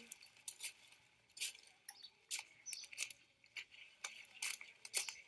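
Irregular light clicks and taps, a few each second, small and sharp.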